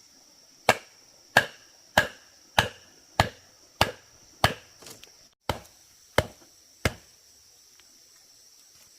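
About ten sharp tool strikes in a steady chopping rhythm, a little over half a second apart, that stop about two seconds before the end. A steady high insect drone runs behind them.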